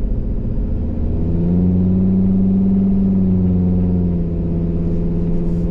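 Car engine and road noise heard from inside the moving car's cabin, a steady drone that swells slightly about a second in.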